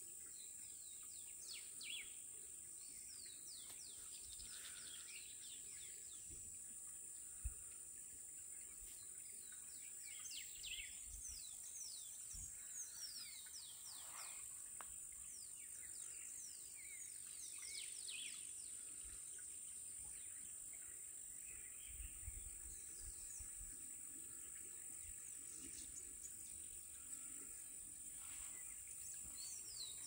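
Faint natural ambience: birds calling with many quick, falling whistled notes, over a steady high-pitched hiss. A single sharp knock sounds about seven seconds in.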